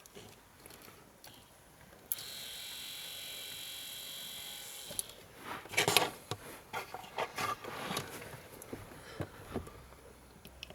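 Small electric flap-positioning motor of a VW Golf 5 V71 recirculation flap actuator running for about three seconds with a steady geared whine, starting and stopping abruptly. Then a few seconds of clicks and rattles, the loudest part.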